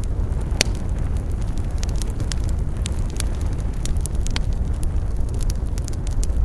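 Wood campfire burning: a steady low rush of flames with frequent sharp crackles and pops, the loudest pop about half a second in.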